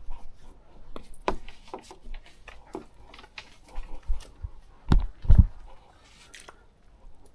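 Footsteps crunching and snapping through dry leaves and brush on a rough trail, irregular, with two heavy thumps about five seconds in.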